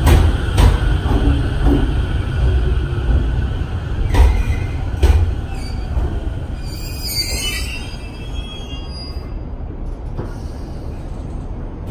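Electric train running along the track: a heavy rumble with a few sharp clacks of wheels over rail joints, then a brief wavering high wheel squeal about seven seconds in, after which the noise dies down.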